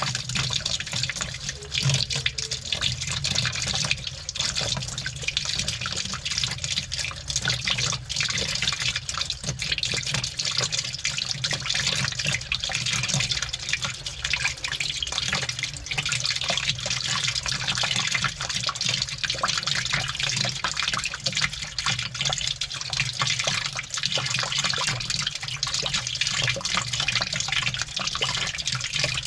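Water sloshing and churning inside a washing machine drum as it turns, heard from inside the drum, with a dense patter of small clicks from the keys tumbling in the wash and a steady low hum beneath.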